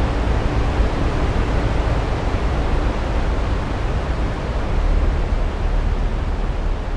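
Steady, loud roar of Vøringsfossen, a 168 m waterfall, as an even rushing noise without breaks.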